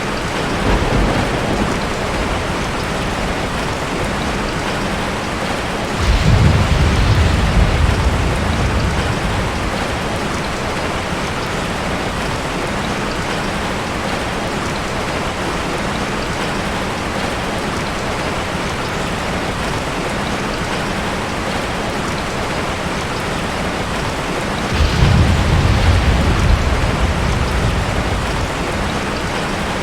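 Heavy rain drumming steadily on a tin roof, with thunder rumbling twice, about six seconds in and again near the end.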